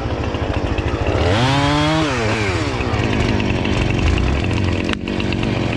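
Gasoline chainsaw running steadily while cutting, revving up and back down about a second in.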